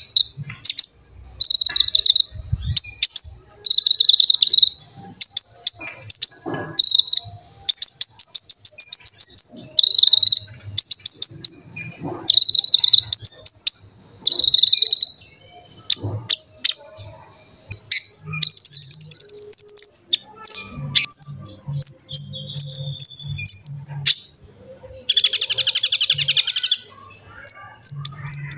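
A konin (kolibri ninja) sunbird singing loudly: short, high, thin chirps and fast buzzy trills, repeated in quick bursts of song.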